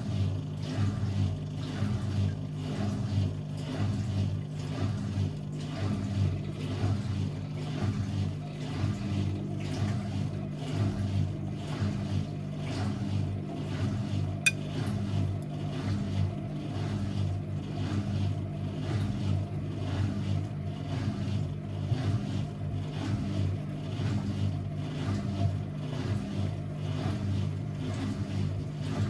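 Constructa Energy 1000s washing machine running: a steady motor hum with a regular pulsing about twice a second, and a single sharp click about halfway through.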